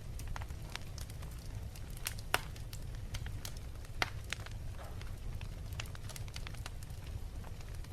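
Wood fire in a fireplace crackling, with irregular sharp pops and snaps over a steady low rumble; two louder pops stand out, one about two seconds in and one about four seconds in.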